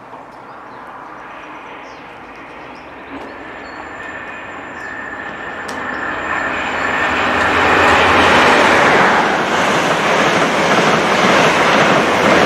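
A CrossCountry High Speed Train passing through the station without stopping. The rail noise builds as it approaches, then turns to a loud, steady rush of wheels and diesel power car from about eight seconds in as the coaches sweep past.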